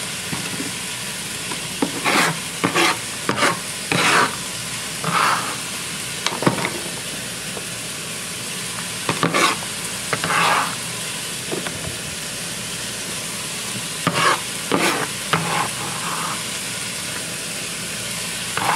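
Steady sizzle of chicken frying in a pan, with about ten short scrapes and knocks as a metal bench scraper scoops diced white onion off a cutting board and into a clear container.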